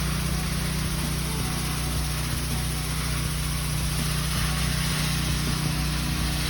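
Carpet cleaning machine running with a steady motor hum as it works the carpet.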